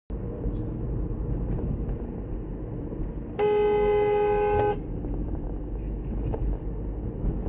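Steady low road and engine rumble from a moving car, with a car horn sounding once in a single steady blast of about a second, a little over three seconds in.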